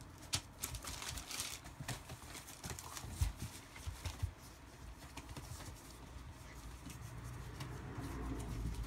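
Rough collie puppies moving about, their paws and claws making irregular clicking taps, busiest over the first four seconds or so and thinning out after.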